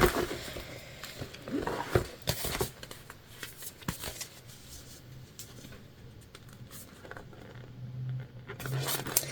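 Faint handling of stiff jelly vinyl pieces being shifted and lined up, with soft crinkles and scattered light clicks. A faint low hum comes in near the end.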